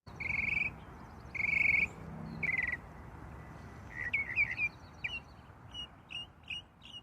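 Birds calling over a steady low background noise: three short buzzy trills in the first three seconds, then a quick run of short chirps.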